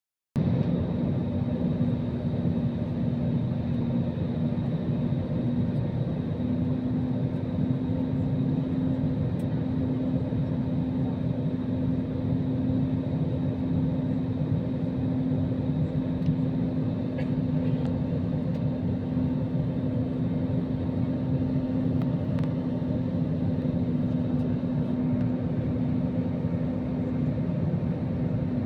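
Aircraft in flight heard from inside the cabin: a steady, unbroken engine drone with a constant low hum and a faint high whine above it.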